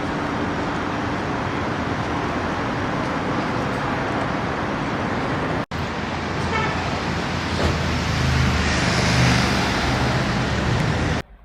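City street traffic noise. After a sudden cut, a car engine grows louder as it approaches and passes close by, then the sound stops abruptly.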